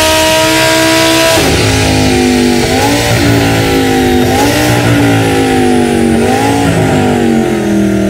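Audi R8's 5.2-litre V10 engine and exhaust held at high revs, pitch creeping up, until the revs drop sharply about a second and a half in. Then three short throttle blips, each revving up and falling back, roughly every one and a half to two seconds.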